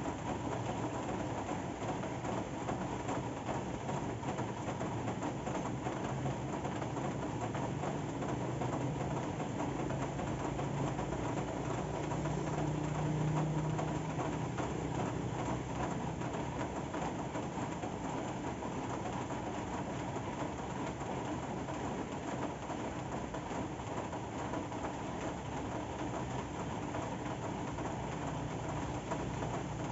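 Steady rain falling, an even patter with no pauses, with a low hum under it that swells about halfway through.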